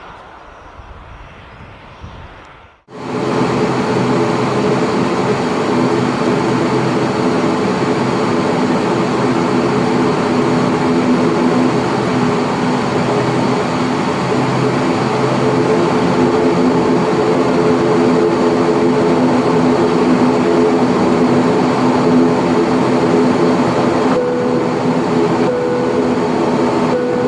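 Cabin drone of an ATR 42-600's Pratt & Whitney PW127M turboprop engines and propellers at takeoff power: a loud, steady drone with a steady hum in it. It cuts in abruptly about three seconds in, after a few seconds of fainter, distant aircraft engine sound. Near the end a faint higher tone comes and goes.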